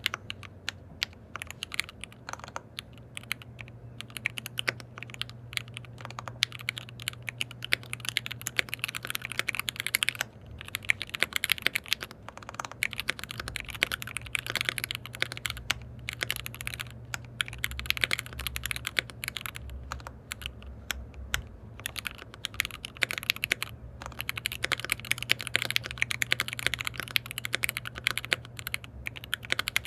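Fast typing on a KBD67 Lite R3 mechanical keyboard with lubed linear switches: a dense run of keystroke clicks, broken by a few brief pauses, over a steady low hum.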